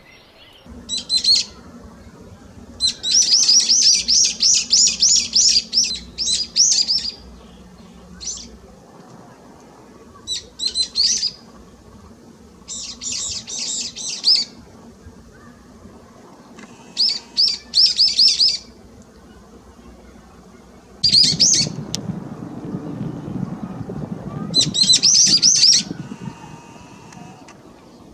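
A wild songbird calling in bursts of rapid, high chirps, about nine runs spaced a second or two apart. A low rushing noise lies under the calls for several seconds near the end.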